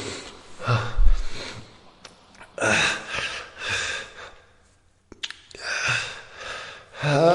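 A man gasping and panting in pain, a series of sharp, ragged breaths with a short break about halfway, and a low groan beginning at the very end.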